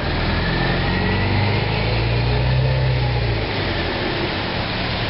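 Steady hiss of heavy rain, with a low engine hum under it that fades out about three and a half seconds in.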